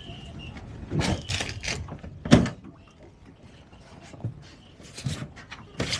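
Knocks and thumps of cushions and a storage locker hatch being handled as the seat cushions are stowed under a boat's deck, with the loudest thump about two seconds in and a few more near the end.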